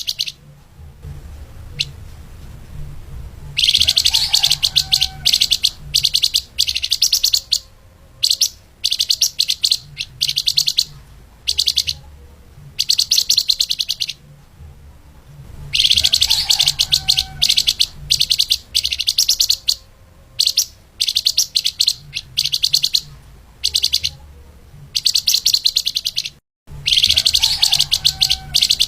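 Flamboyan (lemahan) songbird singing fast, dense, high chattering phrases of one to two seconds, with short pauses between them and a low hum underneath.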